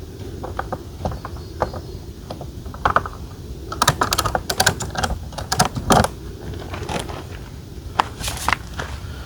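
Irregular sharp clicks and knocks of hard parts being handled, sparse at first and densest about four to six seconds in, over a steady low outdoor rumble.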